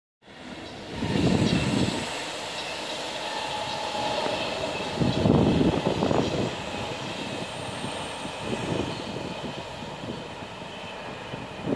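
Electric regional passenger train crossing a stone arch bridge at a distance, a steady rumble of wheels on rails. Low gusts of wind buffet the microphone several times.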